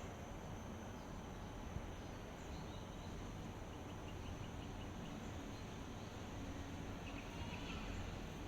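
Steady outdoor ambience: an even hiss over a low rumble, with a thin, steady high insect drone. A quick run of faint chirps comes a little before the middle, and one more chirp near the end.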